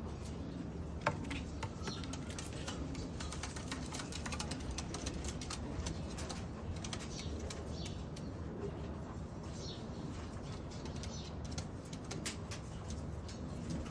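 Homing racing pigeons cooing low, with many light clicks and taps throughout and one sharper click about a second in.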